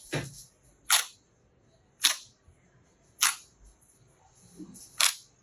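Slime being handled, giving five sharp pops roughly a second apart.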